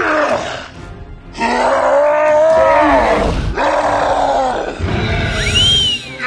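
Cartoon soundtrack music with a string of separate voice-like creature calls whose pitch bends, and a high sliding tone that rises and falls back near the end.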